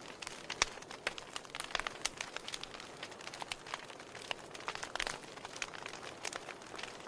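Campfire of burning wood crackling: irregular sharp pops and snaps over a soft steady hiss.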